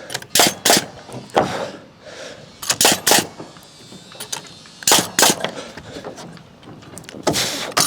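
Sharp, irregular knocks of nails being driven into timber wall framing, about a dozen over several seconds, with a longer half-second noisy sound near the end.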